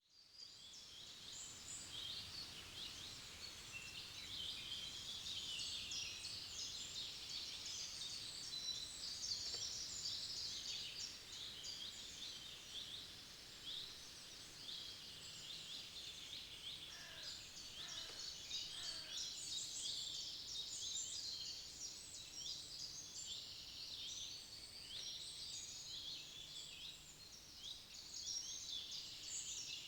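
Forest dawn-chorus of many songbirds singing and chirping at once, a dense, continuous high-pitched twittering, with a few lower, falling calls a little past halfway.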